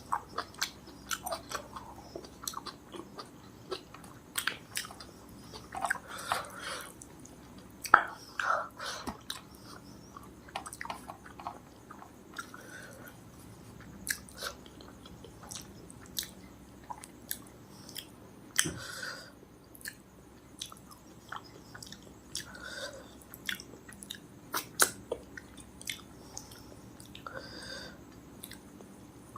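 Close-miked eating: a person chewing and biting food, with many irregular wet mouth clicks and smacks. A few sharper, louder clicks stand out, about eight seconds in and again near the middle.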